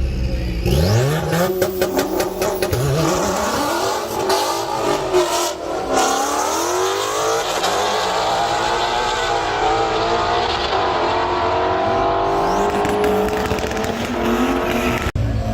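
Car engine revved hard, with a rapid string of sharp pops in the first few seconds, then pitch climbing and holding at high revs.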